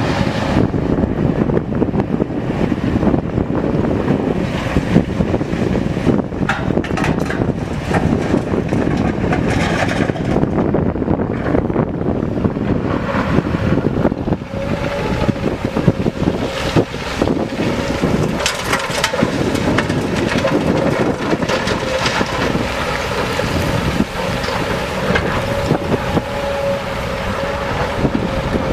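Diesel heavy equipment running hard, with knocks and clanks throughout and a steady high whine joining about halfway through.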